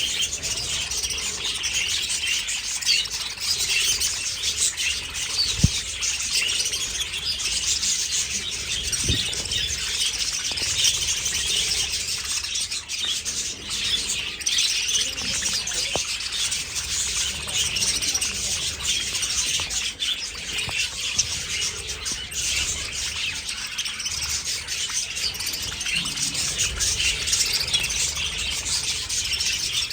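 A large flock of budgerigars chattering, with dense, continuous, overlapping high chirps and warbles. A brief low bump comes about five seconds in.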